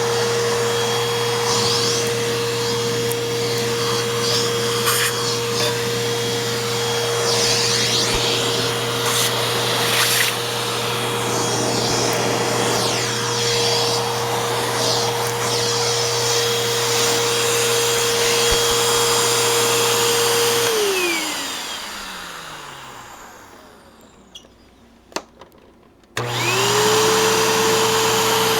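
Eureka Boss Smartvac 4870 upright vacuum motor running at a steady high whine, with some scraping along the way. Late on, the motor cuts off and winds down to near quiet, with a couple of clicks. It then switches back on suddenly and whines up to full speed again.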